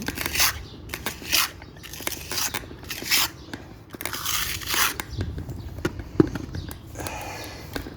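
Trowel scraping mortar into brick joints in repeated strokes, about one a second, followed by a few light clicks and a sharp tap.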